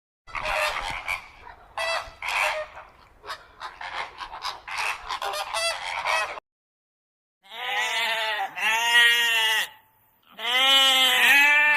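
Farm animal calls: a rapid run of many short calls for about six seconds, then, after a brief silence, two long drawn-out calls that rise and then fall in pitch.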